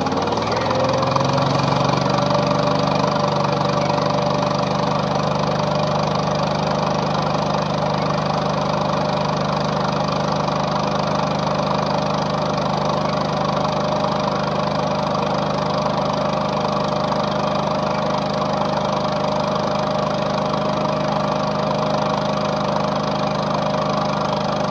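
Toro Dingo TX-427 compact utility loader's engine speeding up over the first couple of seconds, then running steadily at that speed.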